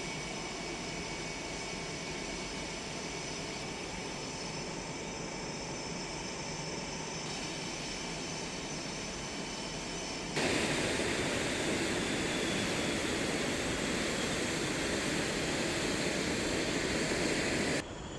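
F/A-18 Hornet's twin jet engines running on the ground: a steady rushing noise with a thin high whine. It jumps abruptly louder about ten seconds in and drops back just before the end.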